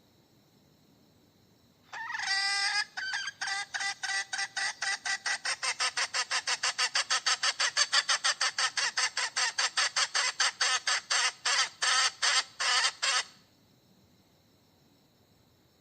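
Hen cackling: a drawn-out opening call, then a fast even run of short clucking notes, about four a second, for some eleven seconds, ending abruptly. This is the hen's call that the uploader takes for calling for a mate.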